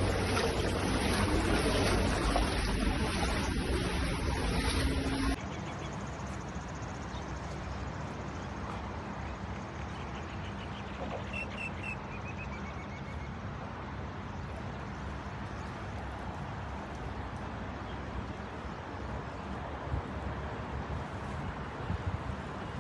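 Steady outdoor traffic noise, loud for about the first five seconds, then cutting suddenly to a quieter even hiss, with a short faint falling chirp around eleven seconds in.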